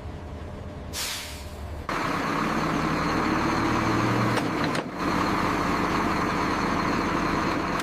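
Heavy military truck: a short hiss of air brakes about a second in, then the engine and running noise step up suddenly and run loud and steady.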